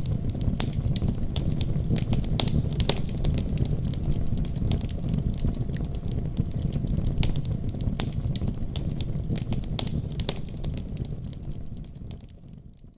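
Fire burning in a fireplace: a steady low rumble with scattered sharp crackles and pops, fading out near the end.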